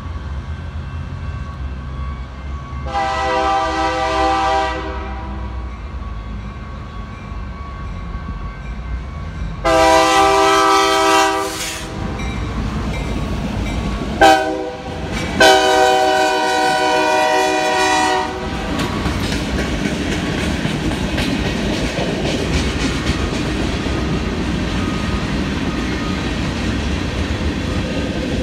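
BNSF diesel freight locomotives passing and sounding the grade-crossing horn signal: two long blasts, a short one and a final long one, over a low engine rumble. After that the freight cars roll by with a steady clatter of wheels on rail.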